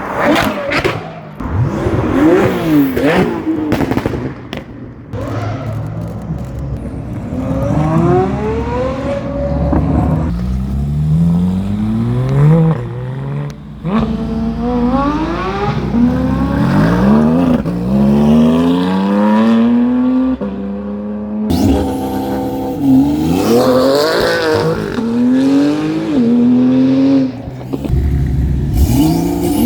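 Car engines revving and accelerating hard, the pitch climbing and falling back again many times over.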